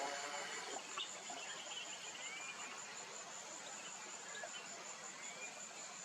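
Steady high-pitched insect trill, rapidly pulsing and unbroken, with two faint short rising whistles from a bird, about two and five seconds in.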